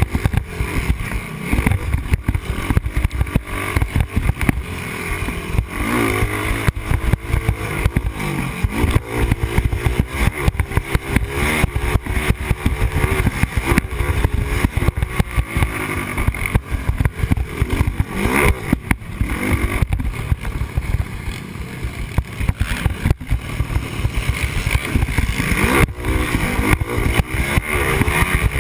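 Yamaha Raptor 250 ATV's single-cylinder four-stroke engine revving up and down over and over as it is ridden hard around the track, heard from a helmet camera with a heavy low rumble of wind and engine noise on the microphone.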